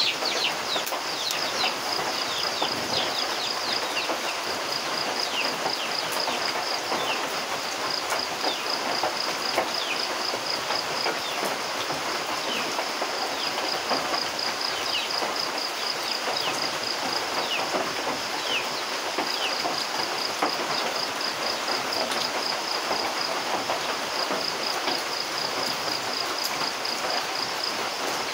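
Steady rain falling, heard as an even hiss. Over it runs a rapid high-pitched pulsing trill, with scattered short falling chirps, most of them in the first half.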